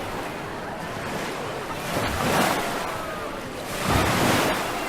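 Sea waves breaking on the shore, two surges about two seconds apart.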